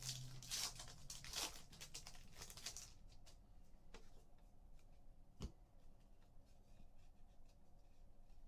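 A foil trading-card pack wrapper being torn open and crinkled for about three seconds, then a few faint clicks and a single knock as the cards are handled.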